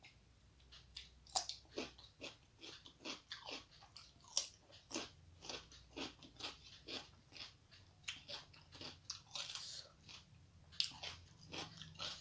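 A person chewing food close to the microphone with wet, crunchy bites, a steady run of chewing sounds about two to three a second that starts about a second in.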